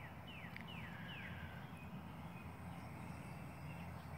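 A bird calling with a quick run of short, falling whistles in the first second and a half, over a faint steady low hum.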